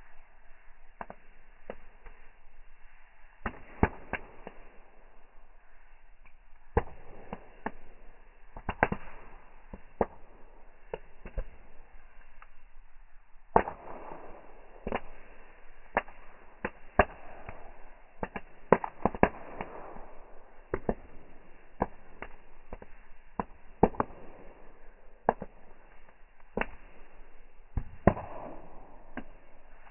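Bonfire crackling, with irregular sharp pops and snaps from the burning wood and stretches of rushing flame noise between them.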